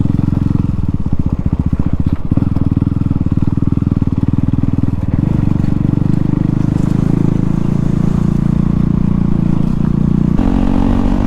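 KTM Duke 390's single-cylinder engine running loud with no exhaust silencer while riding, pulsing steadily. It gets fuller about five seconds in and shifts in tone near the end.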